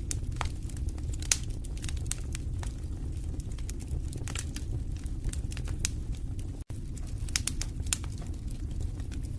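Wood fire crackling in a fireplace: a steady low rumble of flames with many sharp, irregular pops and snaps. The sound cuts out for a split second about two-thirds of the way through.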